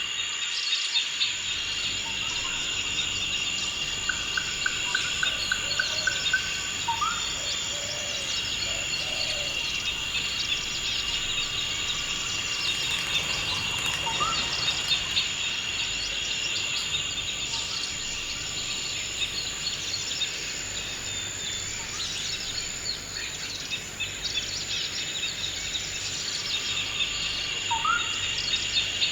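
Forest ambience: a steady, high insect drone with many birds chirping over it. One bird gives a quick run of repeated notes about four seconds in, and short rising whistles come three times.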